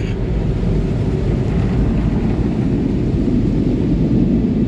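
Car wash air dryer blowers blasting air over the car: a steady, loud rush of air with a low rumble.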